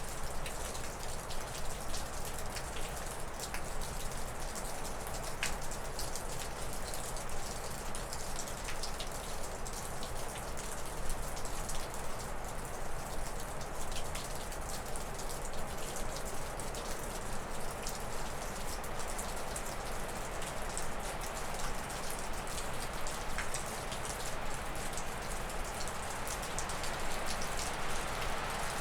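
Wind gusting through spruce and birch trees, a steady rushing that swells somewhat near the end, with meltwater dripping off a roof in many small, irregular drips.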